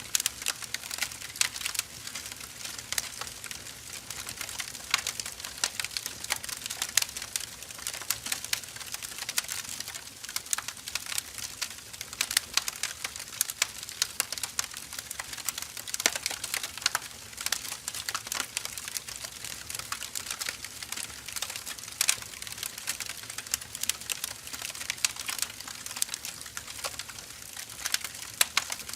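Firewood burning in a fire, crackling and popping in a dense, irregular stream of sharp snaps, with a few louder pops scattered through and a soft hiss underneath.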